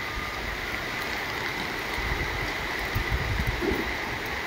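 Steady hiss of heavy rain and running floodwater, with gusty low rumbles of wind on the microphone.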